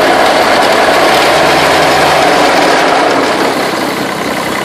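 Small diesel garden tractor engine running loud and close as the tractor is driven off, growing a little fainter near the end.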